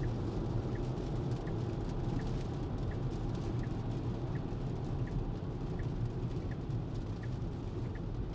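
Steady road and tyre noise inside a Tesla's cabin on a wet highway, with a faint turn-signal tick repeating about every three-quarters of a second as the car sets up to change lanes for its exit.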